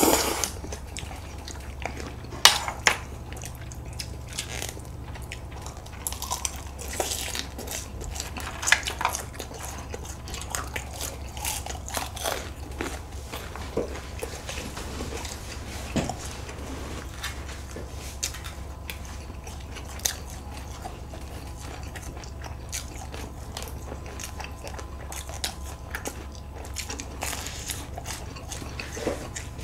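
Two people chewing a meal of jjajangmyeon noodles with fried sweet-and-sour pork (tangsuyuk) and fried dumplings: irregular crisp crunches and wet mouth sounds, close up. A steady low hum runs underneath.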